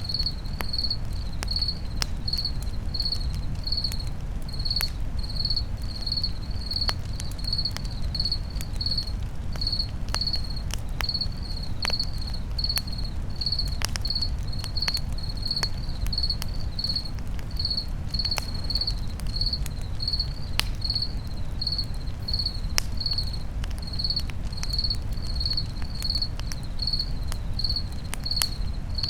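Campfire crackling and popping with irregular sharp snaps over a low steady rumble, while crickets chirp in a regular pulse about twice a second.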